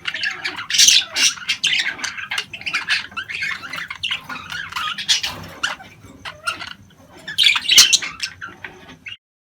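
Budgerigars chattering and squawking in a dense run of short chirps and harsh calls, which cuts off suddenly near the end.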